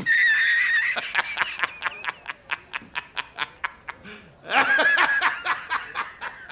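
High-pitched squealing laughter: a held squeal, then rapid laughing bursts at about six a second, with a second squeal about halfway through followed by more laughing.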